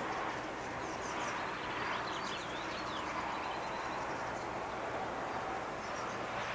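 Small birds chirping in short high calls, busiest in the first half and again near the end, over a steady rushing background that swells and eases every couple of seconds.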